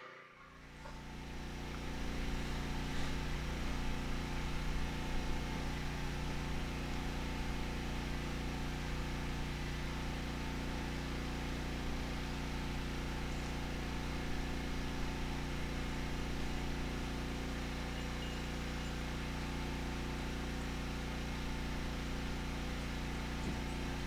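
Skid steer's engine running steadily at a constant speed, coming up over the first couple of seconds, while a log is loaded onto the sawmill.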